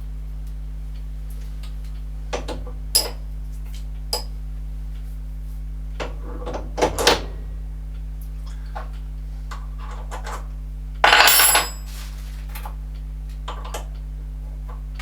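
Metal tools and parts clinking and clattering as they are handled and set down, with a longer ringing metallic rattle about eleven seconds in, over a steady low hum.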